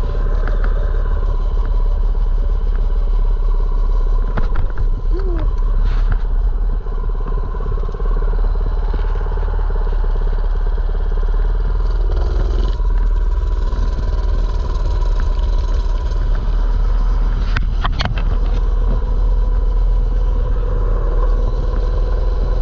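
Mini bike's small engine running steadily under way, a constant drone with a couple of sharp clicks about three-quarters of the way through.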